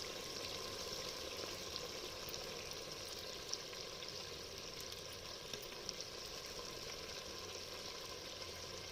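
Chicken pieces frying in oil in a pan, a steady sizzle with a few sharp pops partway through.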